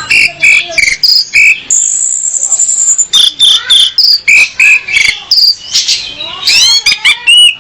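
Female orange-headed thrush (anis merah) calling in a fast run of short high chirps and whistles. A long high whistle comes about two seconds in, and a string of quick rising slurred notes near the end.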